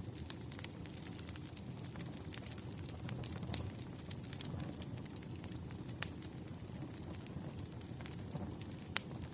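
Wood fire crackling: a steady low rush of burning logs with irregular sharp pops, three of them louder, about a third of the way in, two thirds in and near the end.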